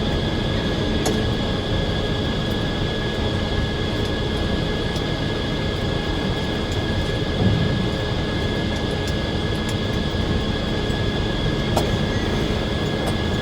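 Circular sawmill running steadily: a constant machine drone with a steady high tone over it and a few faint clicks.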